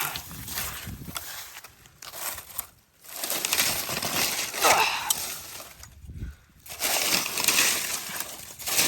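Dry leaf litter and forest debris crunching and rustling in irregular bursts, with two brief pauses.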